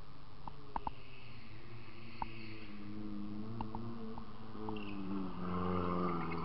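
Fiat Cinquecento rally car's engine approaching under throttle, growing louder and shifting in pitch as it comes through the corner, loudest as it passes close by near the end. A few sharp clicks are heard earlier.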